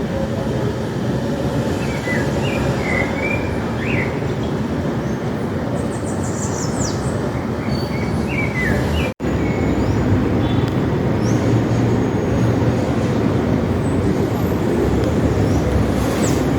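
Steady low rumble of city traffic with small birds chirping over it, a scatter of short chirps in the first half. The sound cuts out for an instant about nine seconds in.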